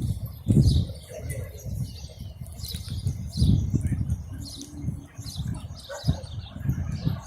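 Small birds chirping over and over in quick high notes. Uneven low rumbling surges sit underneath, the loudest about half a second in, near three and a half seconds, and around six seconds.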